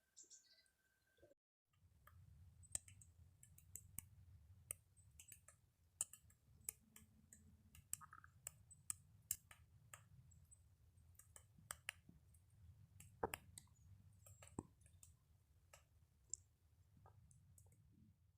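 Woodpecker pecking at wood while foraging for insects: faint, irregular single taps, a few a second, over a low background rumble.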